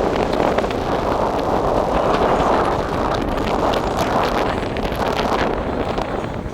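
Steady rushing of wind buffeting the microphone, with faint scattered clicks through it.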